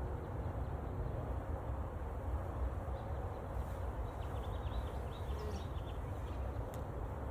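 Honeybees massed around a newly installed hive, a steady dense hum, with a few short bird chirps about halfway through.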